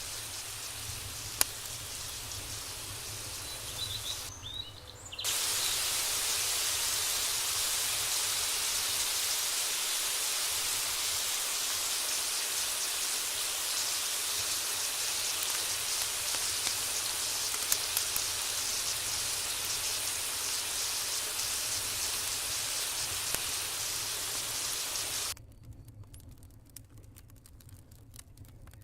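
Food frying in hot oil in a cooking pot, a steady sizzle with a few sharp pops. It breaks off briefly about four seconds in, returns louder, and cuts off suddenly near the end, leaving faint crackles.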